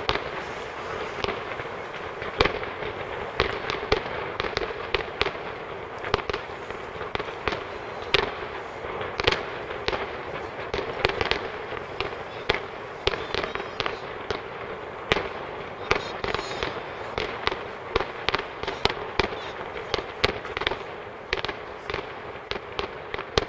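Fireworks display: aerial shells bursting in a rapid, irregular string of sharp bangs, often two or three a second, over a continuous rumbling haze.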